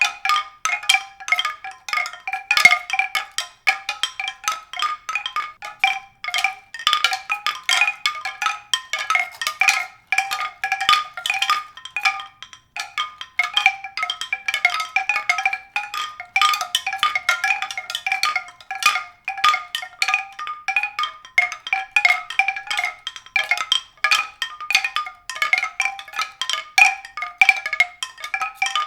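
Mallet-percussion music: a continuous run of quick struck notes, all in a high register.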